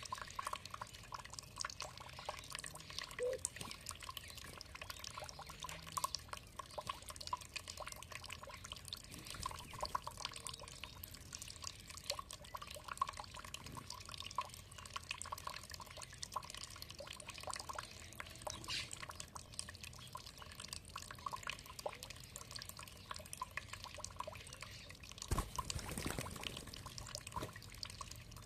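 Water dripping and trickling steadily, a dense patter of small drips, with one louder thump near the end.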